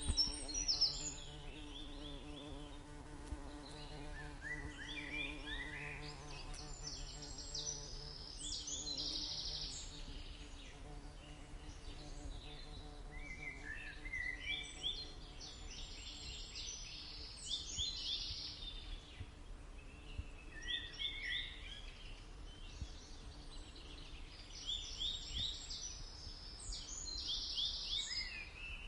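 A bumblebee buzzing in a steady low drone for roughly the first third, fading out around ten seconds in. A songbird sings repeated short phrases of quick high notes every few seconds throughout.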